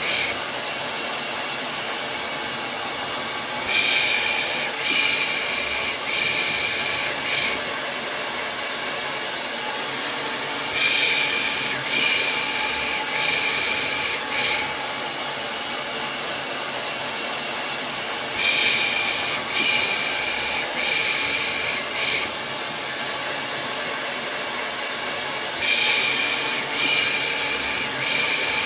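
Hair dryer running steadily, overlaid with a voice making soft 'pış pış' shushes in groups of four, a group about every seven seconds. It is a lulling sound for soothing a baby to sleep.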